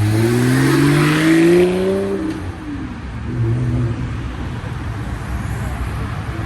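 A car engine accelerating hard, its pitch rising for about two seconds, then settling into a lower, steadier run.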